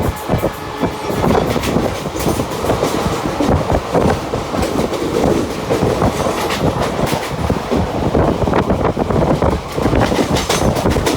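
Mumbai suburban local train (electric multiple unit) running along the line, a steady rumble of wheels on rail with repeated clacks as the wheels pass over rail joints.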